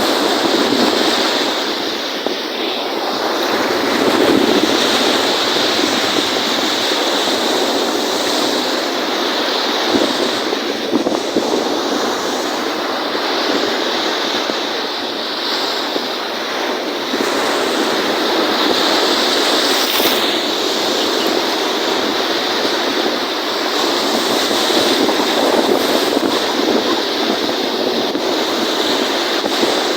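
Wind-driven lake waves: a continuous rushing wash of water that swells and eases every few seconds.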